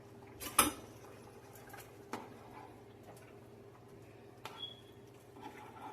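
A few sharp clicks and light ticks from a utensil knocking against a pan while gravy is stirred to thicken it, over a steady low hum. The loudest click comes about half a second in.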